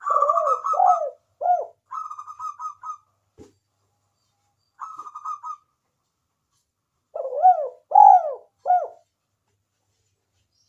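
Spotted doves cooing: four short phrases of arched coo notes mixed with quick rattling notes, separated by pauses, the last phrase about seven seconds in the loudest.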